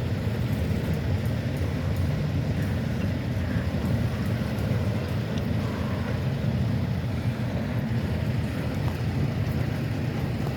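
Steady low rumble from a stopped Norfolk Southern train, its diesel locomotives idling.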